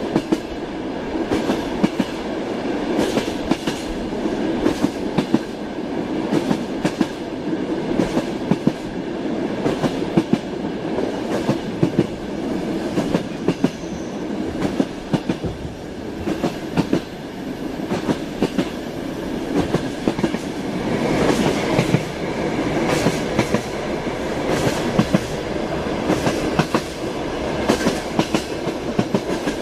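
A rolling train with a steady rumble, its wheels clattering over rail joints again and again.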